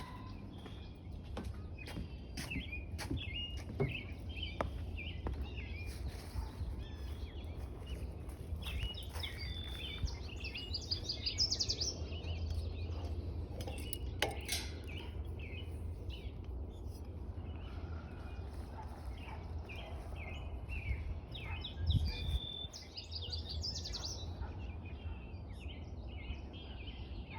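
Wild songbirds singing and chirping, with short calls and quick trills throughout, over a steady low background rumble; a few sharp clicks sound in the first few seconds.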